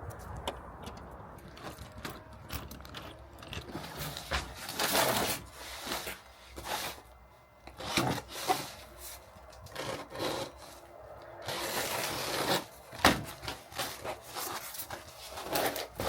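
Wood scraping and rubbing in irregular strokes, with a few sharp knocks, the loudest about thirteen seconds in.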